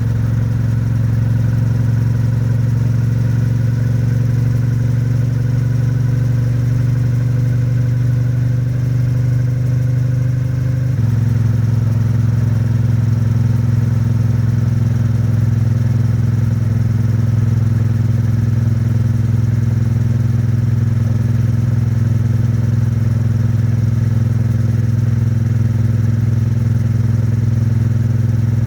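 Triumph Bonneville T100's parallel-twin engine and exhaust running steadily at motorway cruising speed, held at moderate revs during the later part of its running-in. About eleven seconds in, the engine note changes suddenly and gets a little louder.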